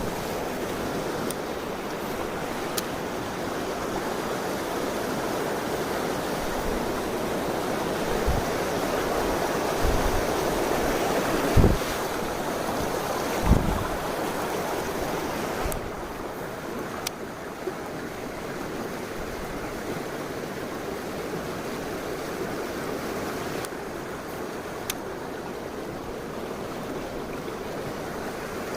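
Mountain stream rushing steadily over rocks, with a few short low thumps near the middle and a couple of faint clicks; the rush gets a little quieter about halfway through.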